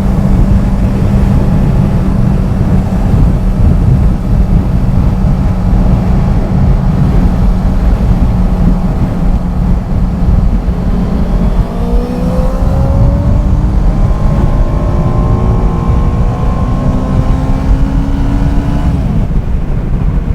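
Motorcycle engine under heavy wind rush on a helmet-mounted microphone, first holding a steady note at cruising speed. About halfway through, the engine note climbs steadily in pitch as the bike accelerates, then drops away suddenly near the end.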